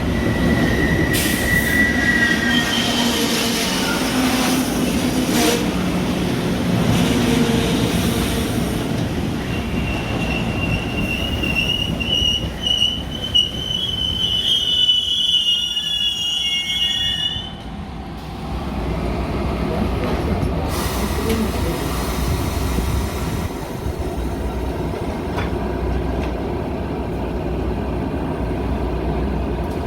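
Metra commuter train running on the rails with a high metal-on-metal wheel squeal, briefly at first and then a longer rising squeal that stops suddenly partway through. After that the train's steady low rumble carries on.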